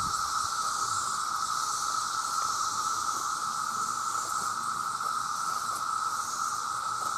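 Dense chorus of many cicadas, a steady unbroken drone held on one pitch, with a fainter high hiss above it.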